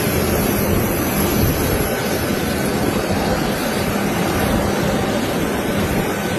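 Steady roar of a jet aircraft's engines, even and unbroken, with a faint steady whine running through it.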